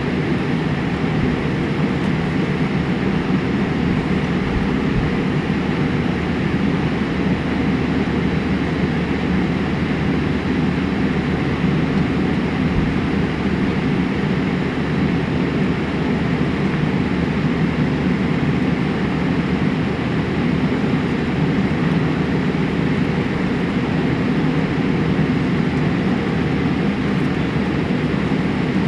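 Steady low rumble of a vehicle heard from inside, an even noise with no breaks.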